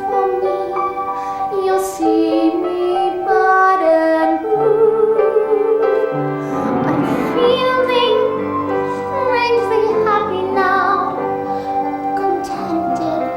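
A woman's solo voice singing a slow, tender song in long held notes over instrumental accompaniment, as in a stage musical.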